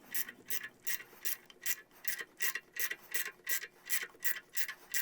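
Ratchet wrench clicking in a steady rhythm, about five clicks a second, as it turns down the forcing screw of a harmonic balancer puller on a crankshaft pulley.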